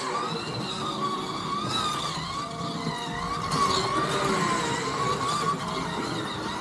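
Scalextric slot cars' small electric motors whining as they lap the track, the pitch rising and falling over and over as the cars speed up on the straights and slow for the corners.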